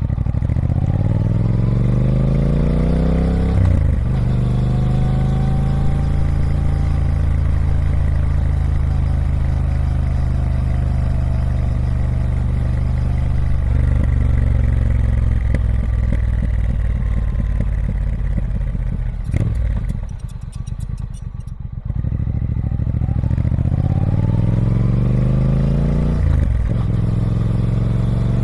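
Triumph Speed Twin 1200's parallel-twin engine on its stock exhaust, pulling through the gears. Revs climb to a gear change about four seconds in, then hold fairly steady. It eases off for a couple of seconds around twenty seconds in, then revs rise again to another shift near the end.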